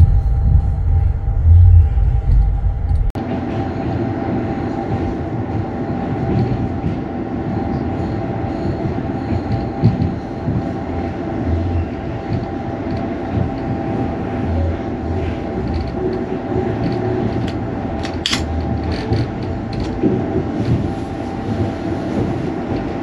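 Sleeper train running along the track, heard from inside the carriage: a steady rumble and rattle of the moving train. About three seconds in the sound changes abruptly from a deep low rumble to a brighter, noisier rattle with a steady hum. There is one brief sharp sound about three quarters of the way through.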